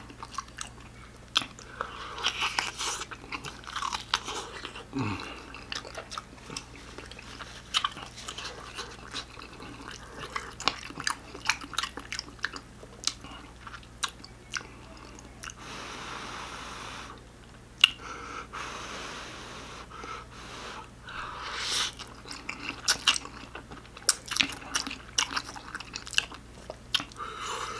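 Close-miked chewing and mouth sounds of a person eating ramen noodles, with frequent wet smacks and clicks and a longer rushing sound a little past halfway.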